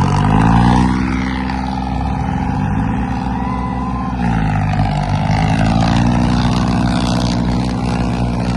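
Tractor engine running hard and revving up at the start, its pitch dipping briefly about four seconds in and then climbing again.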